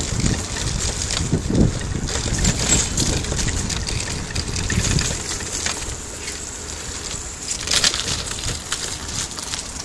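Wind rumbling on the microphone over a steady hiss of rain and rushing river water, with scattered crackles.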